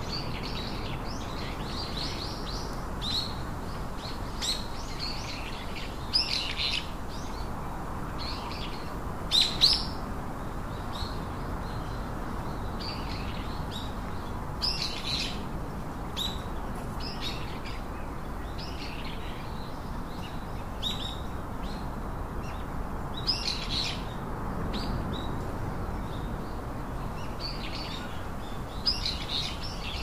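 Small birds chirping: short, high calls repeated every second or two, some louder than others, over a steady low background hiss.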